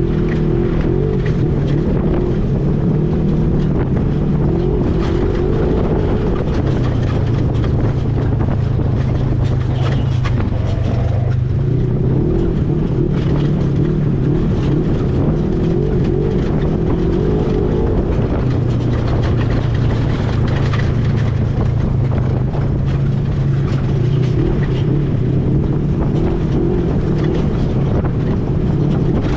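Vehicle engine running while driving. Its pitch dips and changes about ten seconds in, then settles again, with small knocks throughout.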